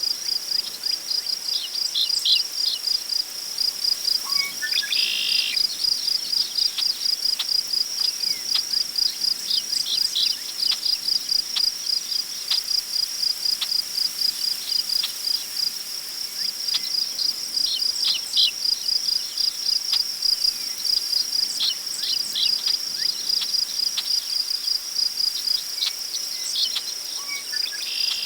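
Crickets chirping in a steady, rapid pulse, with scattered short bird calls over them; one longer call comes about five seconds in.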